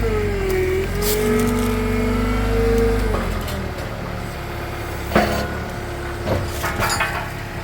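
Bobcat T64 loader's engine running, its pitch dipping and shifting under hydraulic load, then easing off. Sharp metal clanks follow about five seconds in and again near the end, as an attachment is coupled with the hydraulic quick-attach system.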